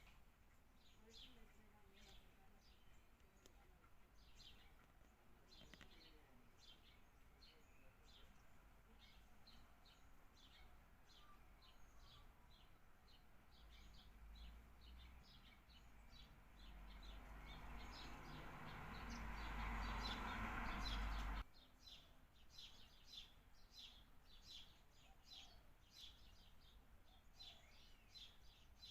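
Birds giving many short, quick chirps, faint and continuing throughout. Past the middle a rushing noise builds for several seconds, then cuts off suddenly.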